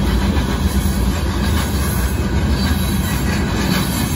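Loaded freight hopper cars of a Union Pacific gravel train rolling past over a grade crossing, a steady rumble of steel wheels on the rails.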